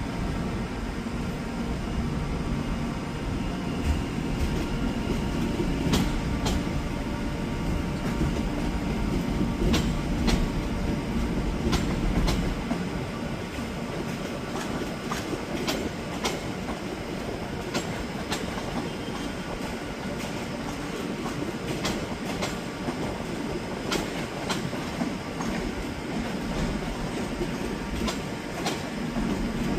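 Train running on the track: a steady low rumble with scattered sharp clicks from wheels passing over the rails.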